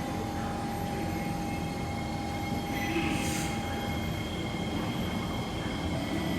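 Kawasaki C151 metro train standing with its onboard equipment running: a steady hum with a faint held tone that drops out about four seconds in. A short hiss comes about three seconds in.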